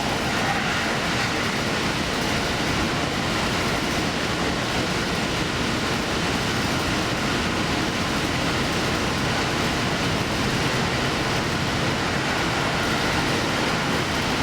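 Diesel express train running steadily along the line: a continuous rumble of wheels on rails and engine, heard from the front of the train.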